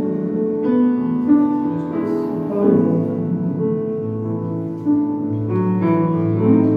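Instrumental break in a slow ballad: piano chords with sustained, changing notes and no singing.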